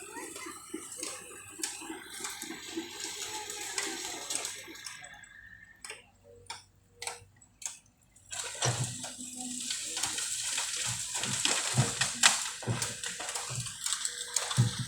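Bamboo being crushed and pushed over by heavy equipment: a dense crackling and snapping of stalks and leaves with low thuds. It eases to scattered snaps about midway, then grows louder again.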